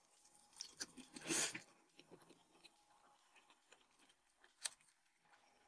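Close mouth sounds of a person biting and chewing grilled skewered meat. There are a few wet clicks, then a louder, longer noise about a second in, then soft chewing with a sharp click near the end.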